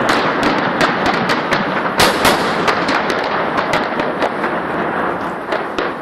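Fireworks display going off: a dense run of sharp bangs and crackling, with one of the loudest bangs about two seconds in.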